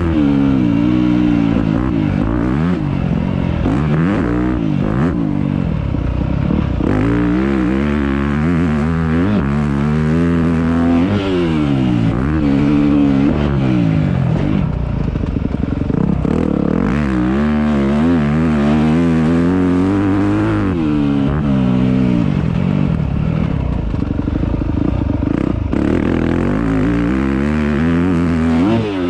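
Motocross dirt bike engine heard from onboard, revving up and dropping back again and again as the rider accelerates, shifts and rolls off the throttle.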